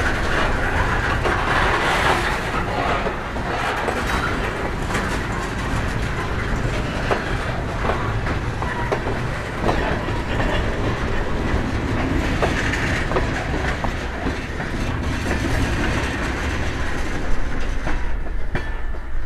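Freight train led by an EMD SD45T-2 diesel locomotive rolling along the track. The wheels click now and then over the rail joints against a steady low rumble. The high, hissing part of the sound drops away about eighteen seconds in.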